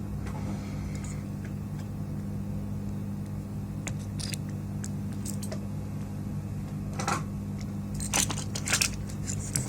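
Scattered clicks and light clatter of hands handling the parts of an Xbox Series X during teardown, a few separate clicks, most of them near the end, over a steady low hum.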